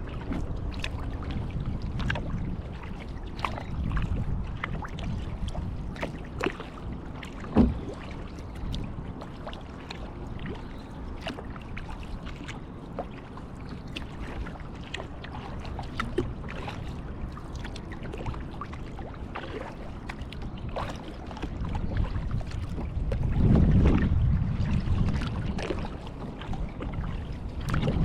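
Kayak paddling: paddle strokes in the water with drips and small splashes over a low rumble. There is one sharp knock about seven and a half seconds in, and a louder swell of water noise near the end.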